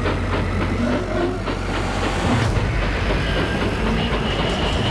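Subway train running, a dense, steady noise. A high steady squeal joins about three seconds in.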